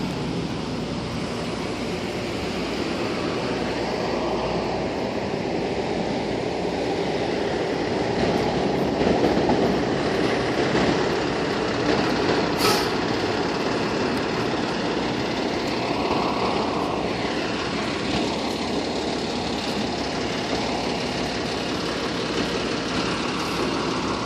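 Fire engine's diesel engine running steadily as the rig is driven back into the firehouse, with a single sharp click about halfway through.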